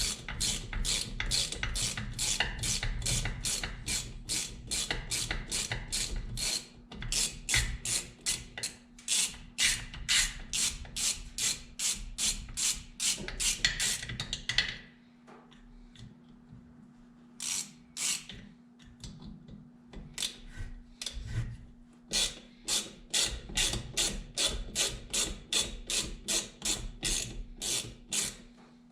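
Ratchet wrench clicking steadily as it backs out long screws from a McCulloch 1010 chainsaw engine, about three clicks a second, with a short pause about halfway through.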